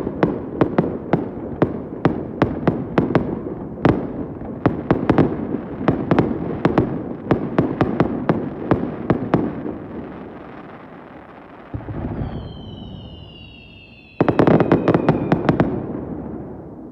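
Aerial fireworks bursting in rapid volleys, several bangs a second, with echoing rumble between them. After a lull with one thud come several whistles falling in pitch, then a second dense volley of bangs that dies away near the end.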